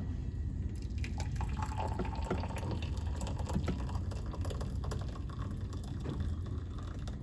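Water being filled into a container: a steady low trickle with small drips and splashes.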